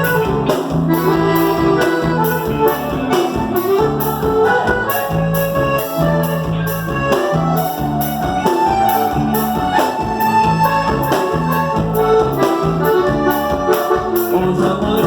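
Instrumental introduction of a gaúcho regional song: an accordion-led band playing with a steady beat, before the vocals come in.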